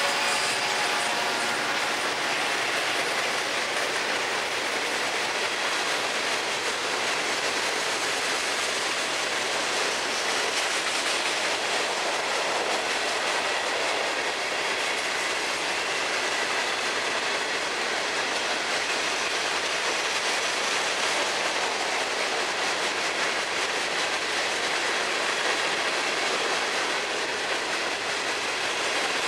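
Florida East Coast Railway freight train's open-top hopper cars rolling past: a steady rumble and clatter of steel wheels on the rails.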